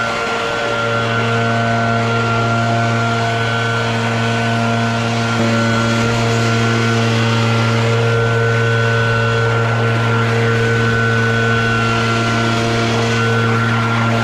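Gas-powered leaf blower running steadily at a constant speed, a little louder from about five seconds in.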